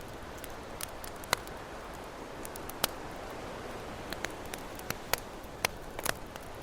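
Campfire crackling, with irregular sharp pops and snaps, a handful of them loud, over a soft steady wash of ocean waves.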